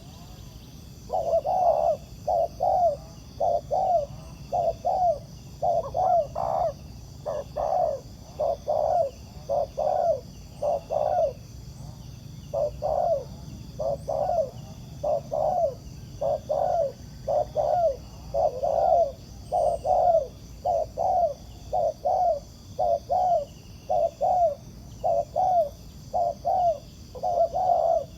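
Spotted doves cooing: short low coos repeated in a steady series, about three every two seconds, starting about a second in.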